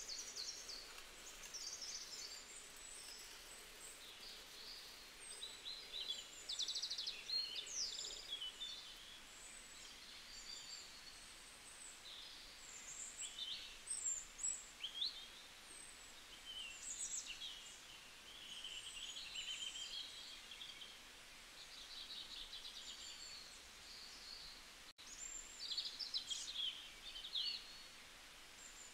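Small birds chirping and singing faintly, a steady run of short chirps, quick trills and rising whistles over a light background hiss.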